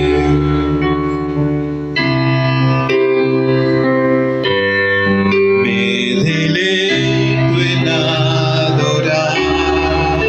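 Worship music played on keyboard: sustained electric piano and organ chords over a steady bass, changing chord about every two to three seconds.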